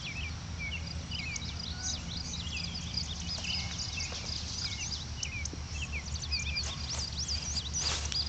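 Many birds chirping and calling, a steady stream of short rising and falling notes, over a low steady outdoor hum. Near the end come a few soft footsteps on grass.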